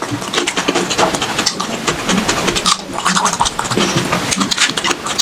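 Close-miked eating: a person chewing pork with wet smacking and many quick, irregular crackly clicks.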